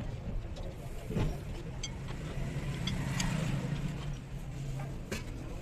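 A vehicle engine running steadily with a low hum, with a few light metallic clicks over it.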